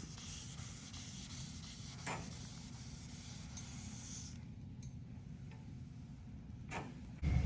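Hand wet sanding of fresh paint with 1500-grit sandpaper, a soft, even rubbing hiss that stops about four and a half seconds in. A low rumble starts suddenly just before the end.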